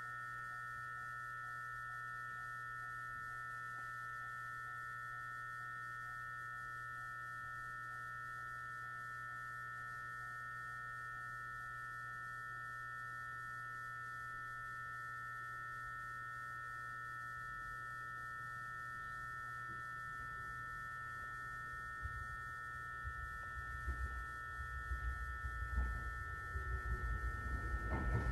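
Stationary 209-series electric multiple unit car, with its onboard electrical equipment giving a steady high whine of several tones over a low hum. In the last several seconds an irregular low rumble builds up and grows louder.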